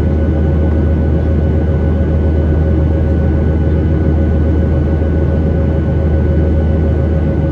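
Steady cabin noise inside a Boeing 737-800: a constant low hum and rushing noise from its CFM56 jet engines and the airflow, with a faint steady whine above it.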